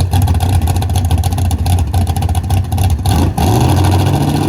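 A loud car engine running rough at low revs, then revving up about three and a half seconds in.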